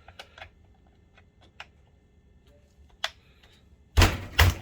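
Small scattered clicks and ticks of a screwdriver working a stuck screw in a projector's plastic housing, then two loud knocks about half a second apart near the end.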